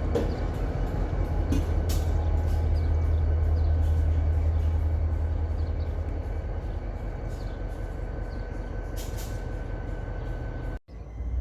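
Diesel freight train rolling past: the locomotive's steady low rumble, with repeated clicks and clacks of wheels over the rail joints. The sound cuts out abruptly for an instant near the end.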